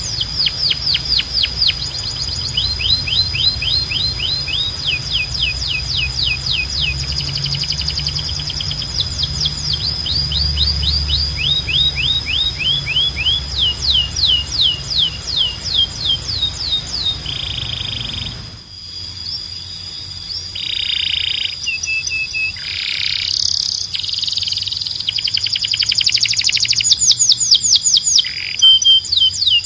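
Domestic canary singing: rolls of fast, repeated falling whistled notes, each roll switching to a new note type every few seconds. About two-thirds of the way through the recording changes to a quieter background, and the song goes on with buzzy notes and very fast trills.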